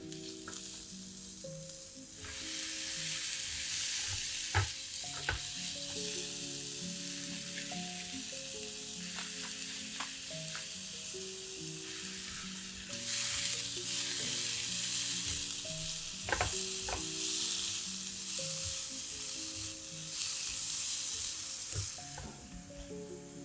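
Sliced button mushrooms sizzling and frying in a nonstick frying pan as a silicone spatula stirs them, with a few sharp knocks against the pan. The sizzle sets in about two seconds in and swells at times. Soft background music plays underneath.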